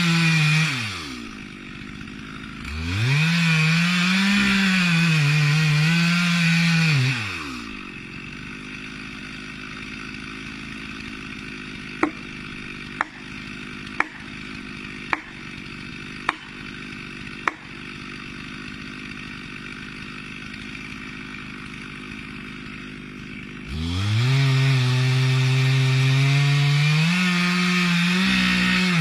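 Chainsaw cutting into a tree, its engine bogging and revving under load, then dropping to a steady idle for a long stretch. During the idle come six sharp clicks about a second apart. The saw revs back up into the cut near the end.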